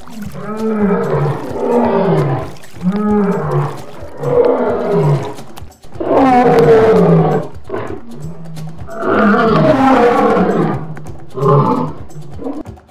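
Lion roaring: a series of long, rough calls, each sliding down in pitch, separated by short pauses.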